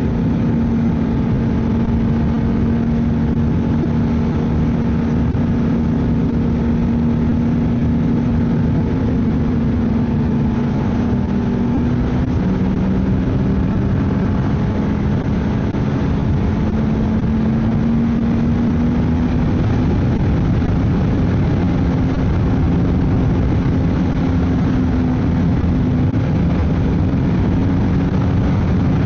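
Ski-Doo snowmobile engine running steadily at trail speed, its pitch drifting a little up and down with the throttle, over a constant rushing noise.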